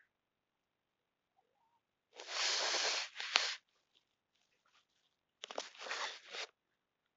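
Pet cat making weird breathy noises while fixed on a fly: two noisy bursts, the first about a second and a half long, the second about a second long a couple of seconds later.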